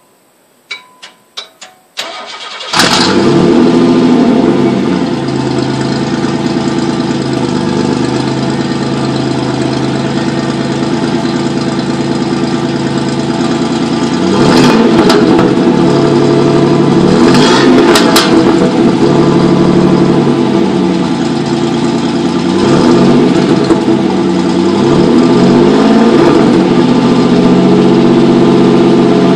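A few sharp clicks from the starter solenoid, which the owner says sticks when hot. Then a 1994 Pontiac Firebird V6 with a Flowmaster American Thunder exhaust cranks and starts just under three seconds in. It settles into a steady idle, and near the middle and again near the end the throttle is blipped four times, each rev rising and falling back to idle.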